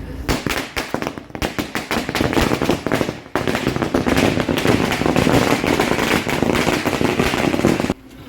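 A fast run of sharp cracks and pops that turns into dense, continuous crackling about three seconds in, then cuts off abruptly near the end.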